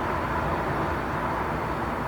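Steady train station ambience: an even low rumble with a hiss on top, no separate events standing out.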